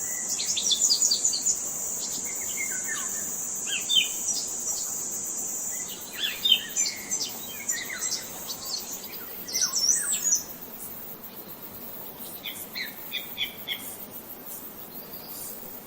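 Several songbirds chirping and singing in short phrases, over a steady high insect drone that stops about six seconds in.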